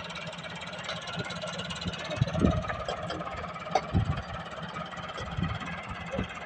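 Tractor engine running steadily, with a few short louder thumps about two and a half and four seconds in.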